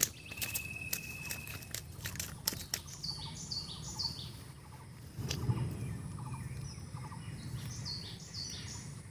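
A bird calling in two runs of short, high, downward-slurred notes, each run a few notes in quick succession. Early on there are crackles of dry leaves being handled and a thin steady note, and about halfway through a low rumble comes in.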